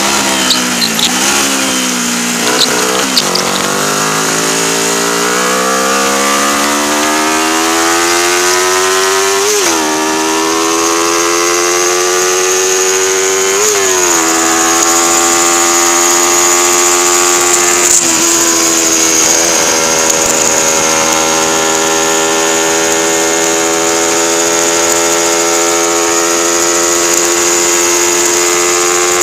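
Race-prepared 1977 Honda 125 twin's engine pulling hard on track, heard onboard with steady wind rush. The revs fall and climb again near the start, then rise slowly, with brief sharp dips in pitch about 10 and 14 seconds in, and run high and steady through the second half.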